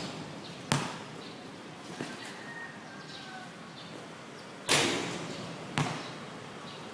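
A basketball striking hard surfaces: a sharp hit about a second in, then a louder bang with a short fading tail near the five-second mark and another sharp bounce about a second after it.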